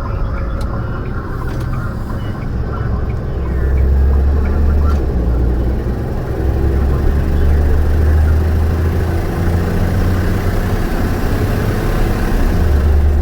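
Peterbilt big rig's diesel engine and road noise heard inside the cab while driving: a steady low rumble that grows louder about four seconds in.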